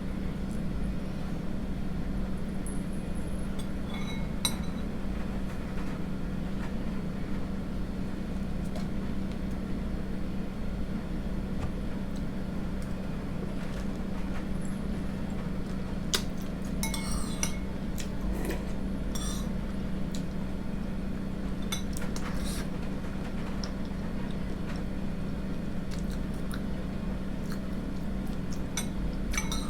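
Spoon clinking against a bowl while eating porridge: scattered light clinks, a cluster of several about halfway through and a few more near the end, over a steady low hum.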